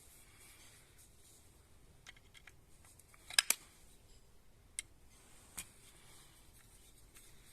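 A few sharp clicks and taps of tools and parts being handled while the compressor is assembled. The loudest is a quick double click about three and a half seconds in, with quieter handling noises between.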